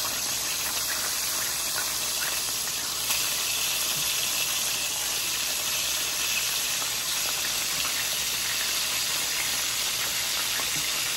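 Breaded pork chop fingers frying in hot oil in a Lodge cast iron grill pan: a steady sizzle that gets a little louder about three seconds in, as more pieces go into the pan.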